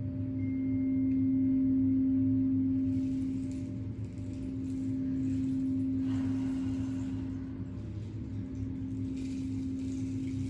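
Singing bowl giving a sustained, steady ringing tone that slowly swells and fades, with no fresh strikes.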